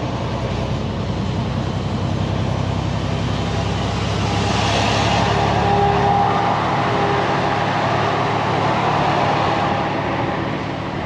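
Freightliner semi truck's diesel engine running steadily under way, heard from inside the cab, with road noise that swells about midway and then eases.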